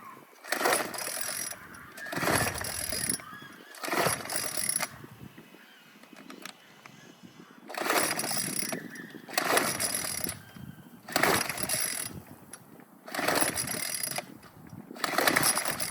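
Weed eater two-stroke engine being pull-started over and over, the recoil starter cord whirring out about every second and a half with a short pause in the middle; the engine does not catch.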